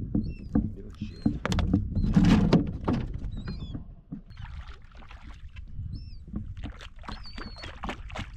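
Kayak on the water: knocks and water noise around the hull over a low rumble, with a louder rush of noise about two seconds in. Short high bird calls sound several times over it, from the birds working the water.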